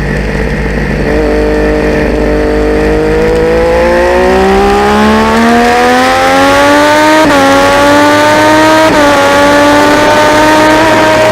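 Triumph Daytona 675's inline-three engine pulling hard under acceleration, its pitch climbing steadily for several seconds. Two upshifts about a second and a half apart each bring a sudden drop in pitch before it climbs again.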